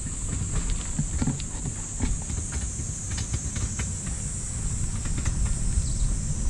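Steady high-pitched buzzing of insects over low wind rumble on the microphone, with scattered light clicks and ticks.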